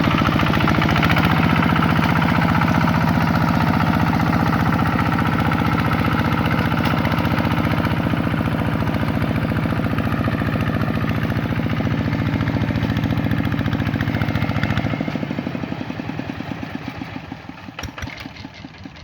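Vikyno RV 125-2 hand tractor's single-cylinder diesel engine running steadily, then shut off about fifteen seconds in, its beats slowing and dying away.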